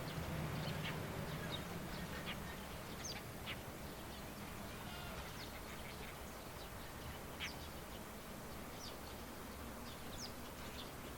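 Birds chirping sporadically in open countryside: short, high calls, a few sliding quickly in pitch, over a faint steady outdoor hiss. A low rumble fades away over the first few seconds.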